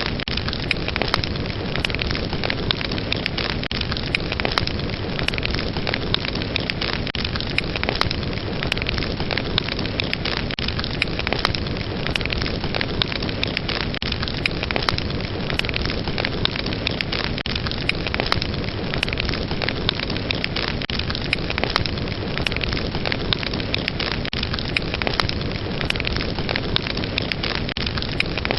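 Fire burning steadily with a dense, continuous crackle and frequent sharp pops.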